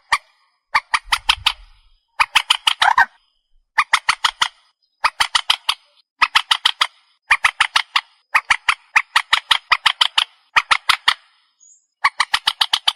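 Calls of the trích ré, a rail-family waterbird: harsh, rapid notes in runs of about seven to ten, each run under a second long and repeated every second or so. This is a playback recording used as a lure call for night trapping.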